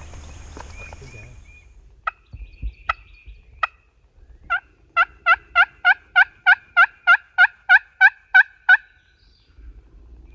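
Turkey yelping: three widely spaced yelps, then a steady run of about fifteen yelps at roughly three a second that stops abruptly.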